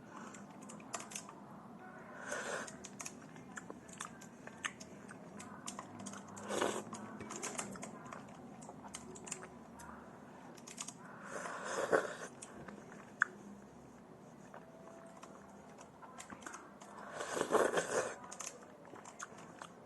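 Close-miked eating of tortellini in broth: many small wet mouth clicks and chewing sounds, with four louder, longer sounds spaced several seconds apart.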